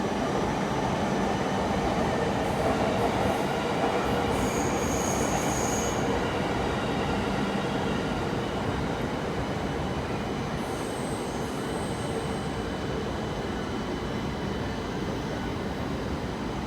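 Running noise of an E7-series Shinkansen heard from inside a passenger car: a steady rumble of wheels on rail and air rushing past, with two brief high-pitched tones over it.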